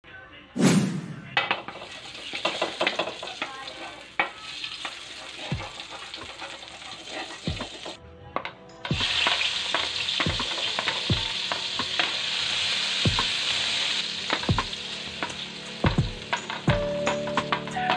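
Oil and butter sizzling in a wok as ginger, garlic and onion are sautéed, the sizzle louder in the second half, with scattered sharp knocks of a wooden spatula stirring in the pan.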